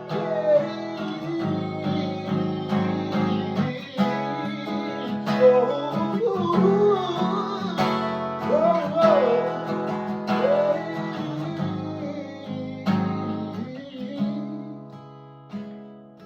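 Music: an acoustic guitar strummed in an instrumental passage of a song, with a wavering melody line over it, thinning to single ringing chords near the end.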